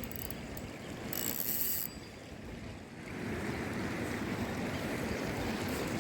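Outdoor water sound with wind on the microphone. A brief burst of hiss comes about a second in.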